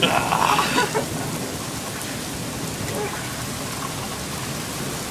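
Heavy, wind-driven rain falling steadily, with a brief louder rush in the first second.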